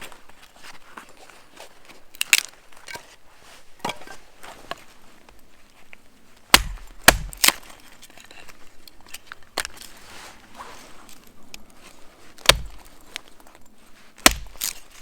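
Firewood being chopped: sharp wooden strikes at irregular intervals, some coming in quick pairs a fraction of a second apart.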